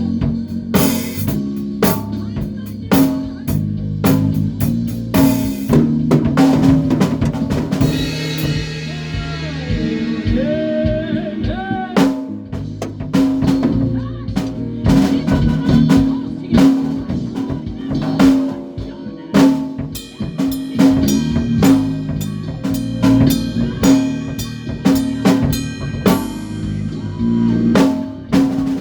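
A band playing a song at rehearsal: a drum kit with snare and bass drum beating steadily under bass guitar and guitar, with some bending, gliding notes about a third of the way in.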